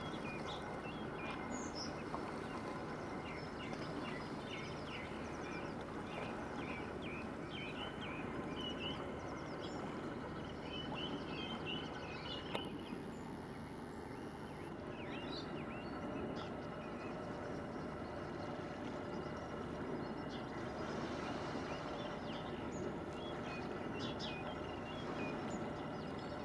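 Steady low rumble and hiss of the ferry Loch Striven's engines and the water, with frequent short bird chirps and calls over it, busiest in the first half.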